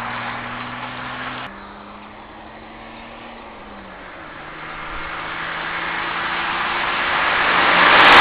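A vehicle's engine running at a steady pitch, which drops abruptly about one and a half seconds in, steps down in pitch around the middle and then grows steadily louder toward the end.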